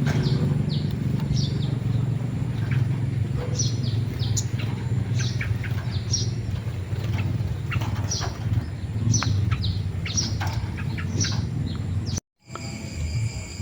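Small songbirds chirping, many short high chirps in quick succession over a steady low hum. After a brief break near the end, a steady high-pitched trill like insects takes over.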